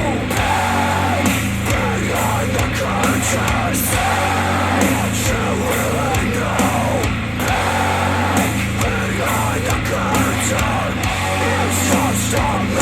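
Rock music with guitar and a steady bass line, played back through a Sony SRS-XB43 Bluetooth speaker.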